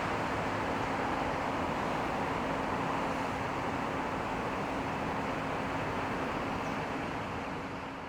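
Steady outdoor city ambience of traffic-like noise with a low, even hum underneath, starting to fade out near the end.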